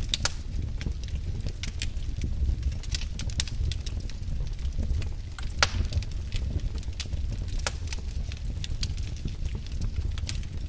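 Wood fire in a fireplace crackling, with frequent sharp pops and snaps over a steady low rumble of the flames; a louder snap about halfway through.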